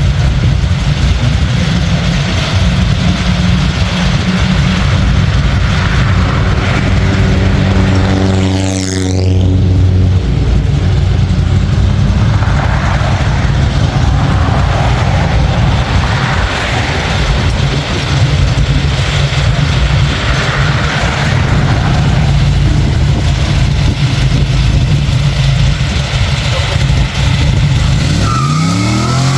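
A hot rod's engine held at high revs in a burnout, under a steady rush of tyre noise. The engine note dips and climbs again about nine seconds in.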